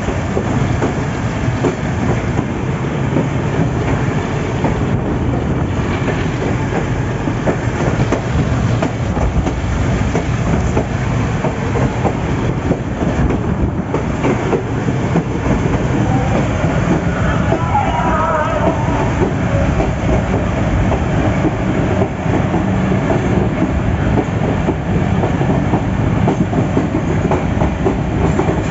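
Train running at speed, heard from on board at an open window: a steady rumble with the clickety-clack of wheels over the rails.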